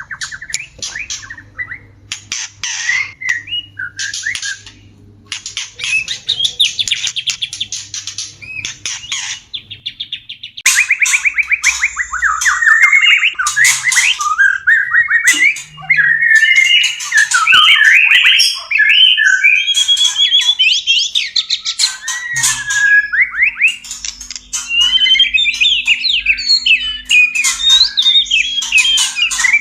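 White-rumped shama (murai batu) mating calls: a fast, varied song of whistled glides and trills broken by harsh, chattering squawks. The song grows louder and denser about a third of the way in.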